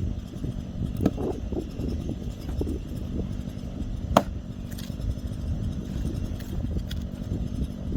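A small engine running steadily at low speed, with a held low hum. A single sharp knock stands out about four seconds in, and there are a few fainter clicks around a second in.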